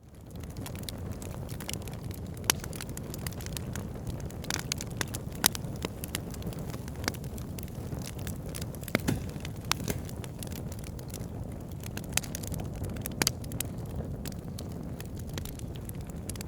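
Wood fire burning in a fireplace: a steady low rumble of the flames with frequent sharp crackles and pops, fading in from a brief dip at the very start.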